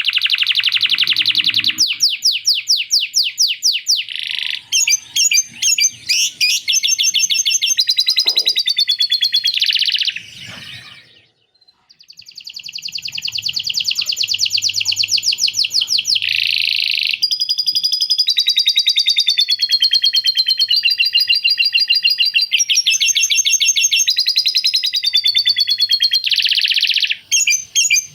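Male domestic canary singing a long, loud song of rapid trills and rolls, switching from one repeated phrase to the next every second or so, with a short break about eleven seconds in. The song is filled with lovebird-style chattering phrases the canary has learned.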